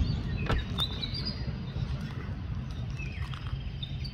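Birds chirping, a scatter of short high whistled notes, over a steady low rumble.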